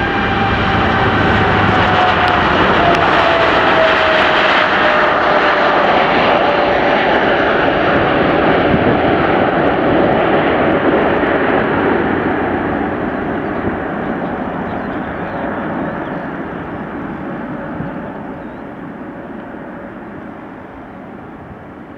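Cargolux Boeing 747 freighter's four jet engines at takeoff power as it passes by. A whine falls in pitch a few seconds in as it goes past, and the noise then fades steadily as it climbs away.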